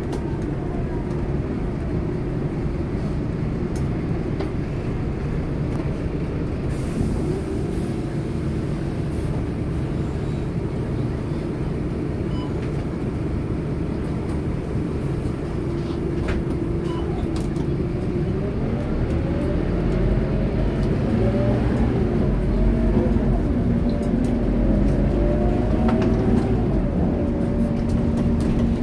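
Scania K230UB city bus's diesel engine and automatic gearbox running under way, heard on board, with rising and falling whines as it accelerates and shifts. The engine works harder and gets louder about two-thirds of the way through, then settles to a steady hum near the end.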